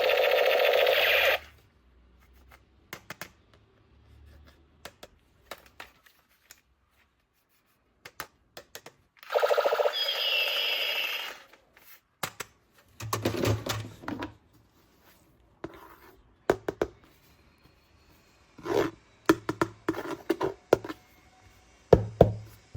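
Two bursts of an electronic toy sound effect, the second with a falling high tone. After them come scattered plastic clicks and knocks from toy parts being handled.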